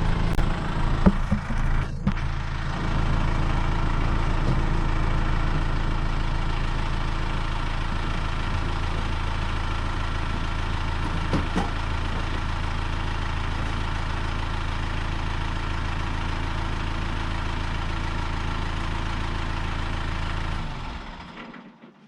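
Kubota M6040 tractor's diesel engine idling steadily, with a few light clicks. It is shut off near the end and dies away to near silence.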